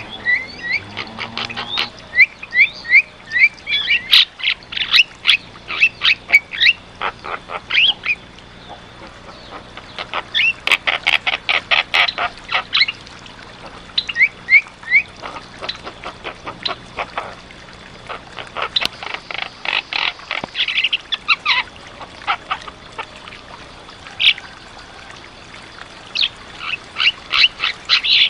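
Javan myna calling: runs of short rising whistles and bursts of rapid, harsh chattering notes, broken by short pauses.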